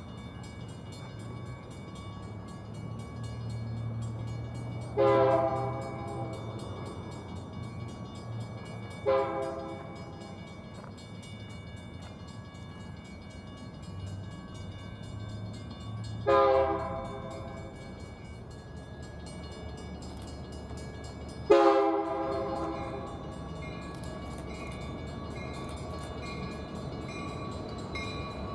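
BNSF freight locomotive's air horn sounding four separate blasts of about a second each, over the steady low rumble of the locomotive's diesel engine.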